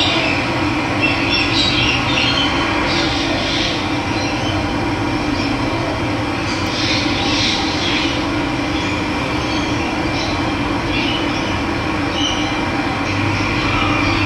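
Steady rush of running water, with birds chirping over it in short bursts, clearest in the first few seconds and again about halfway through.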